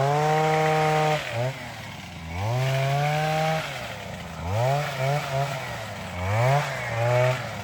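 Small two-stroke engine of a handheld portable coffee harvester revving up and down over and over, held high for about a second at a time at first, then in shorter, quicker bursts.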